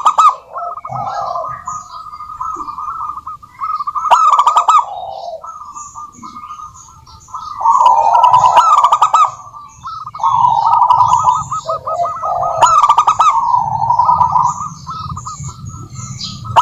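Zebra doves (perkutut) cooing: repeated phrases of fast, rolling staccato coos that follow one another with short gaps and sometimes overlap, with higher chirps mixed in.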